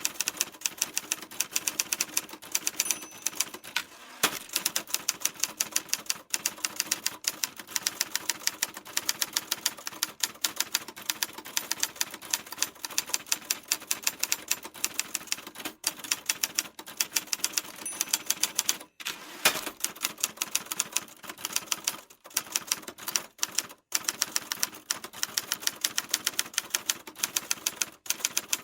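Typewriter keys being typed fast and continuously: a dense run of sharp clicks, several a second, broken by a few short pauses.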